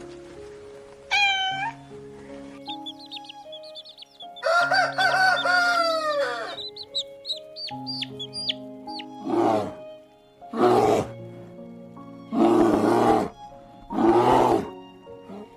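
Animal calls over background music: a short falling call, then high chirps, one long call that falls in pitch at its end, more chirps, and four short harsh calls in the second half.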